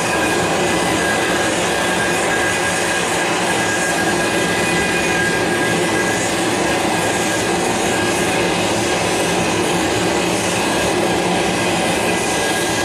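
Aircraft turbine engines running steadily: a constant rush with a steady high whine over it.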